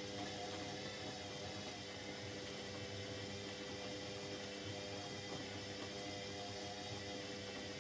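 Indesit 71252 washing machine filling with water: a steady rush of water with a low hum underneath.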